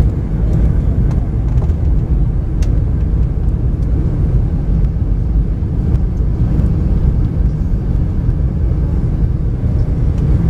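Steady, loud rumbling cabin noise inside a Boeing 717-200 airliner, from airflow and its two rear-mounted Rolls-Royce BR715 turbofan engines, with a few faint clicks.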